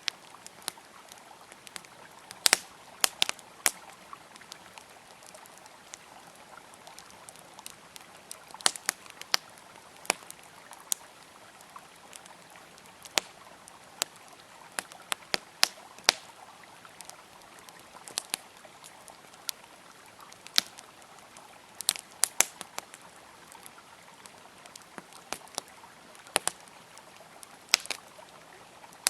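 Campfire crackling, with sharp pops at irregular intervals over the steady rush of a flowing river.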